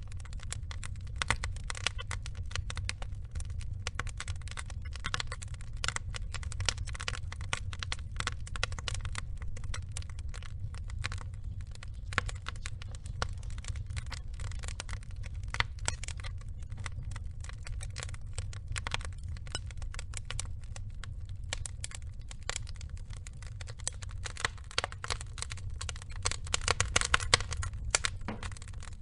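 Log fire burning, with dense irregular crackling and popping over a low steady rumble of the flames. The pops grow louder and closer together near the end.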